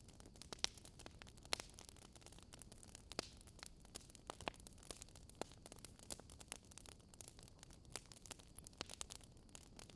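Wood fire crackling: faint, irregular pops and snaps, several a second, over a low steady hiss.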